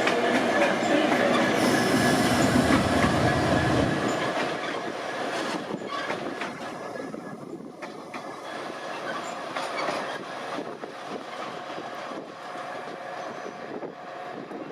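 A train moving through the station, loud with a low rumble for about the first four seconds and then fading away. Steady wheel squeal runs throughout, with a few sharp clicks of wheels over rail joints.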